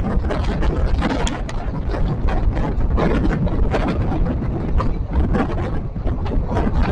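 Passenger express train running on the track: a constant low rumble with dense rattling and clatter from the wheels and coach, and some wind noise.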